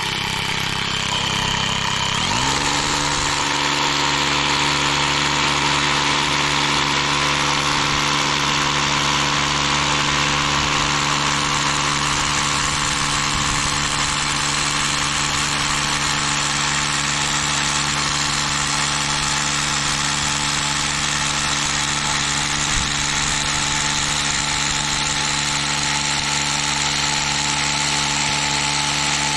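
Power drill boring into rock: the motor spins up about two seconds in, then runs at a steady pitch with a constant drone.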